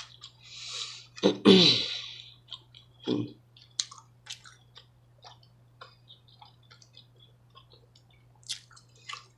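Close-up chewing of a mouthful of food, with many small wet mouth clicks and smacks. A breathy exhale and a short hum come in the first few seconds, over a faint steady low hum.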